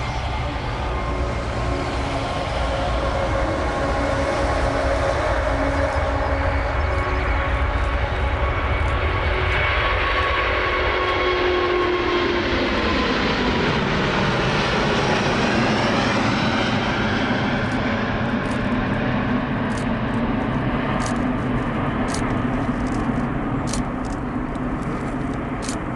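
Jet airliner's engines roaring as it passes close by, their whine sliding down in pitch about halfway through as the aircraft goes past.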